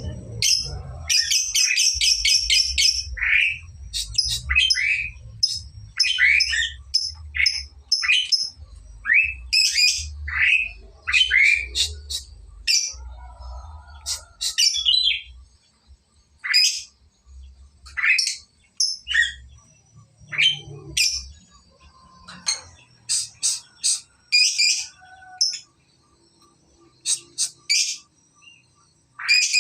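A lovebird chirping and squawking in sharp, high calls. About a second in there is a quick chattering trill of rapidly repeated notes: the 'ngekek' song of a bird still learning to hold it long. Short calls then follow with brief pauses between them.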